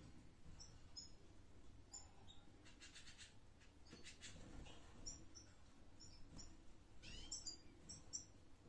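Faint, scattered short high chirps from small cage birds, with one longer upward-sweeping call about seven seconds in.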